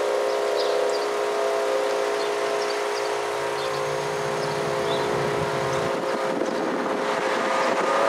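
Federal Signal Model 5 warning siren holding a steady, multi-tone wail, a unit that has failed and is not sounding properly. A passing car's rumble comes in over it a few seconds in and fades after a few seconds, with faint bird chirps above.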